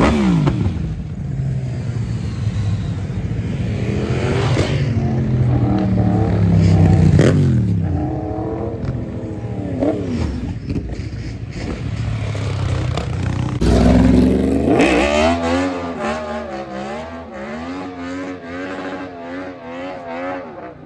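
Motorbike engines revving hard and passing by, their pitch rising and falling several times. In the second half one engine is blipped up and down over and over in quick succession.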